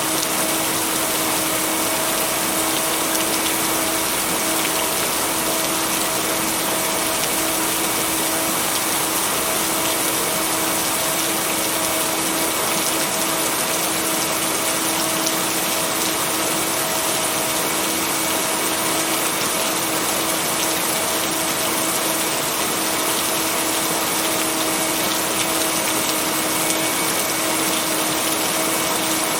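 Steady heavy rain falling, an even unbroken hiss, with a steady pitched tone running underneath it from the binaural-beat layer mixed into the track.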